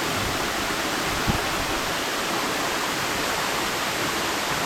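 Waterfall rushing: a steady, even roar of falling water. A single brief low thump about a second in.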